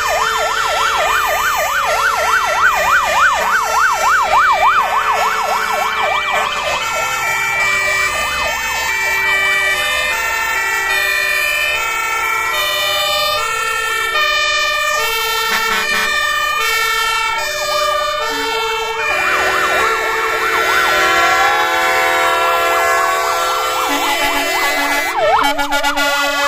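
Several fire engine sirens sounding at once from a passing convoy of fire trucks. A fast yelp comes first, then overlapping two-tone hi-lo sirens, a slow rising wail about three-quarters of the way through, and a fast yelp again near the end.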